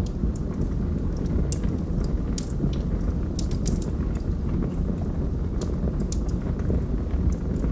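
Wood fire burning in a fireplace: a steady low rumble of flame with scattered sharp crackles and pops from the logs.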